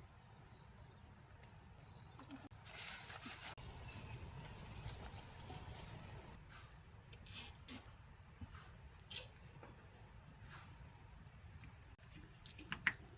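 Insects trilling in a steady, high, continuous chorus. A few faint clicks are heard over it, and one sharper click comes near the end.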